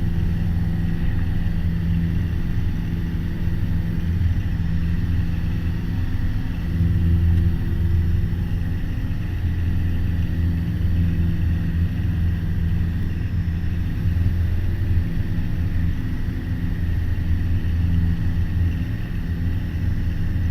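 Piper Warrior's four-cylinder Lycoming engine and propeller droning steadily at climb power, heard inside the cabin.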